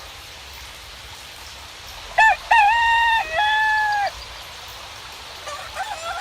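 A rooster crowing once, about two seconds in: a short opening note, then a long held cock-a-doodle-doo that steps down in pitch partway through. A few short clucks follow near the end.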